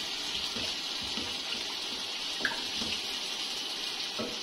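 Ginger-garlic paste sizzling in hot oil in an aluminium pot: a steady frying hiss, with a couple of light knocks as a wooden spoon stirs it.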